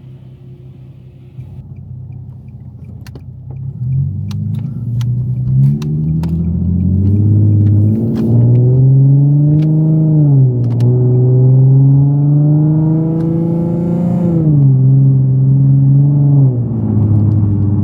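Automatic car wash machinery running around the car, a loud motor whir whose pitch rises and falls slowly over several seconds, with a few sharp ticks early on.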